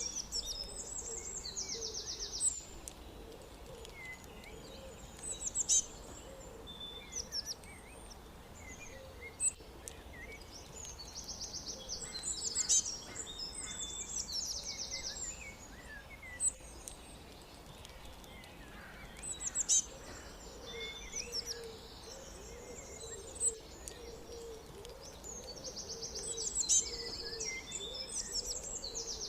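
Several birds singing: bursts of fast, high trills about a second long recur every few seconds among sharp chirps, with a low repeated call underneath.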